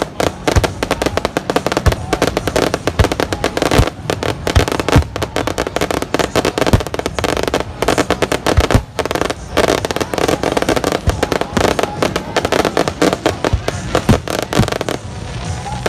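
Fireworks display: a dense, rapid string of cracks and bangs with deeper booms scattered through, thinning out near the end.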